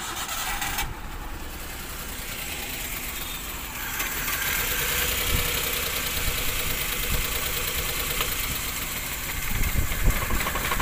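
Maruti Alto 800's three-cylinder petrol engine cranked on the starter, catching and running roughly with a heavy misfire, stumbling with low thuds near the end. Cylinder 1 is not firing, and with a good cylinder's coupler unplugged for testing the engine cannot keep running.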